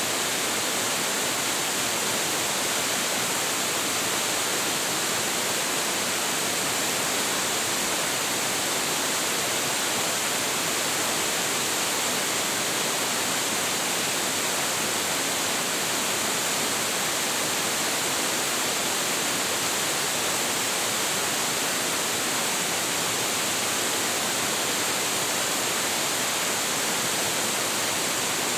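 A large waterfall crashing steadily into its plunge pool, an even, full rush of falling water strongest in the hiss, with no change in its sound.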